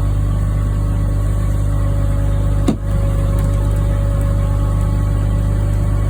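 Medium-duty tow truck's engine running steadily during a winch-out recovery, with one short knock just before halfway through.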